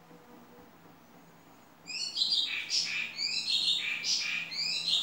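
Faint steady hum of a running electric fan. About two seconds in, a bird starts chirping loudly, with quick high chirps repeated about twice a second.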